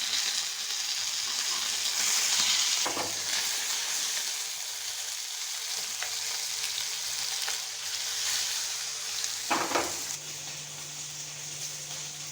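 Food sizzling steadily in hot oil in a pan, with a short knock about three seconds in and a sharper double knock near the end, after which the sizzle is a little quieter.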